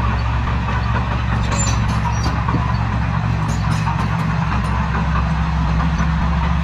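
Heavy diesel engine of earthmoving machinery running steadily with an even low drone, with a few faint clicks about two seconds in.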